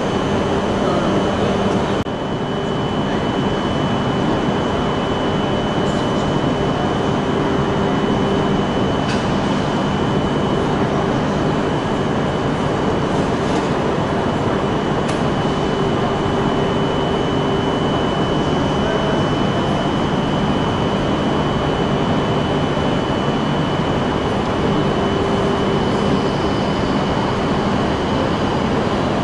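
Steady hum and hiss of an E5 series Shinkansen train standing idle at the platform, with a thin high whine held throughout.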